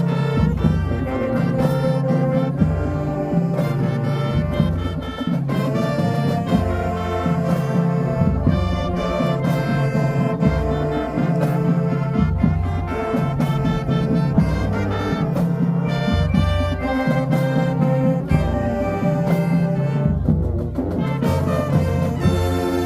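High school marching band playing: a full brass section of trumpets and trombones with a heavy low brass line, driven by regular drum hits.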